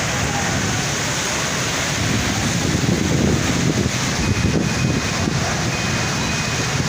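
Heavy rain falling in a steady, dense hiss, with wind buffeting the microphone in gusts from about two seconds in.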